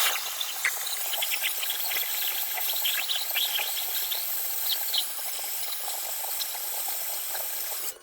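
A steady hiss with fine crackling, starting suddenly and cutting off suddenly about eight seconds later.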